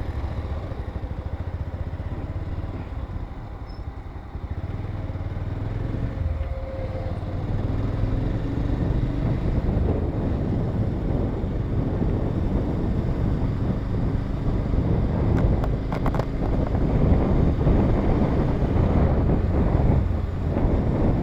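Motorcycle engine running as the bike is ridden along, getting louder about seven seconds in and holding there.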